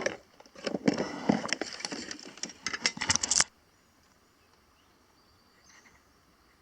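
Close rustling and clattering handling noise for about three and a half seconds, cutting off suddenly; then a quiet outdoor background with a few faint high chirps.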